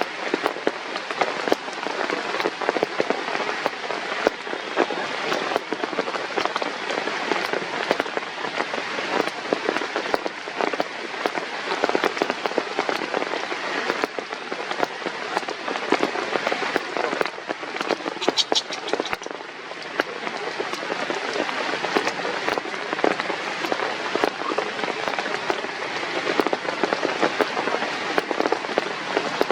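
Steady rain pattering on a surface, a dense, unbroken spatter of many small drop impacts.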